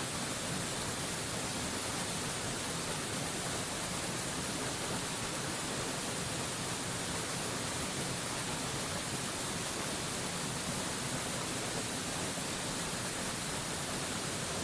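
Waterfall rushing: a steady, unchanging wash of water noise, strongest in the high hiss.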